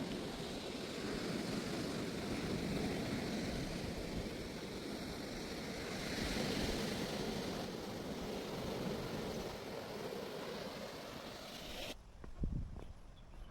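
Surf washing onto a sandy beach: a steady rushing noise that swells a little and then cuts off suddenly near the end, leaving a few soft knocks.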